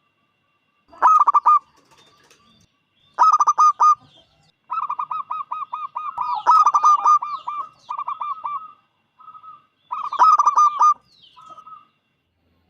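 Zebra dove (perkutut) cooing in full song: about six phrases of rapid staccato notes with short pauses between them, the longest run in the middle.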